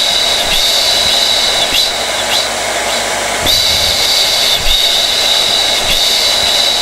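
Hair dryer running steadily: rushing air with a high-pitched motor whine that wavers briefly now and then.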